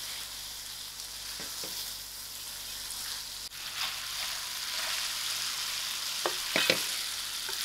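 Cabbage and baked beans sizzling steadily in a stainless steel pan while a wooden spoon stirs them, with a few short knocks and scrapes of the spoon against the pan.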